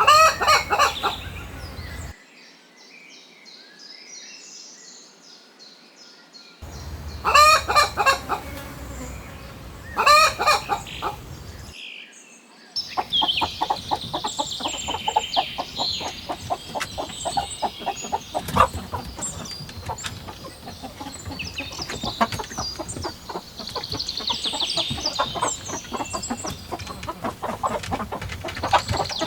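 Roosters crowing: three loud crows, near the start, about seven seconds in and about ten seconds in, with the sound cutting abruptly between them. From about thirteen seconds in, a flock of chickens clucking steadily, with high chirping calls over it.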